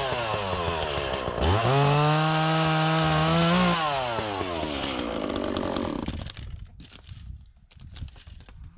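Echo CS-400 two-stroke chainsaw revving up and held at high speed for about two seconds, then dropping back to idle. The engine sound dies away about six seconds in, leaving faint clicks of handling.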